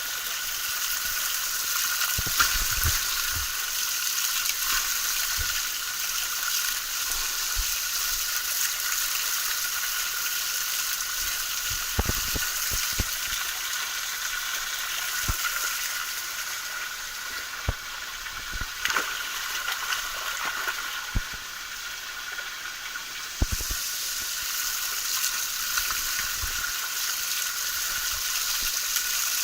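Small forest waterfall: a steady hiss of falling water, with a few short knocks.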